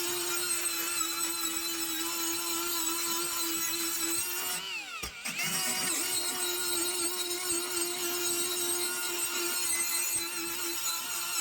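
Electric power tool running steadily on the iron of an antique ice claw, working its rusty surface flat. About five seconds in, its pitch falls and rises back as the tool briefly slows and picks up speed again.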